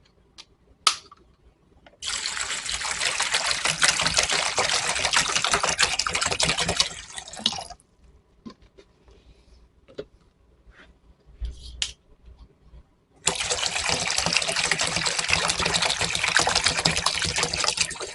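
Water running into the bowl of a pet water fountain as it is filled, in two pours of about five seconds each with a quiet pause between, where there are a few light knocks.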